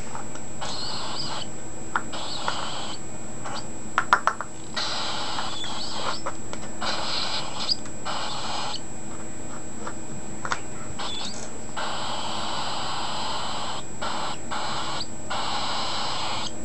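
Young cockatiel chick giving its raspy, hissing food-begging call while being hand-fed, in long stretches of a few seconds with short breaks, along with a few sharp clicks.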